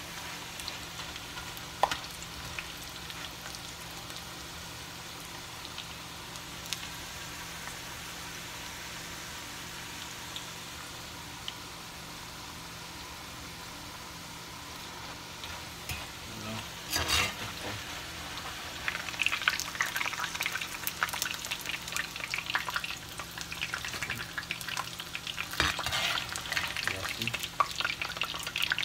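Green banana slices deep-frying in oil in a cast-iron skillet, a steady sizzle. From a little past halfway the crackling grows louder and busier, with knocks and scrapes of a metal skimmer as the slices are stirred and lifted out of the oil.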